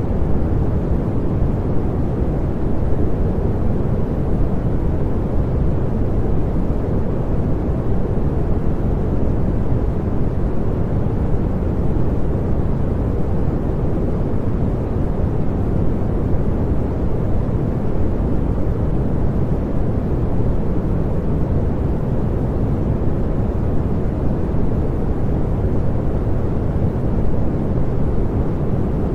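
Continuous synthetic pink noise: an even, unchanging rushing hiss weighted heavily toward the low end.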